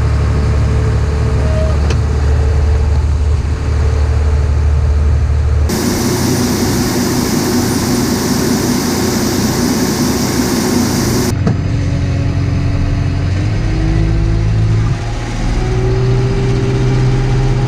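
Heavy harvest machinery engines running. A steady low drone gives way suddenly, about six seconds in, to a loud even rushing noise that stops just as suddenly some five seconds later. The engine then returns, rising in pitch as it speeds up.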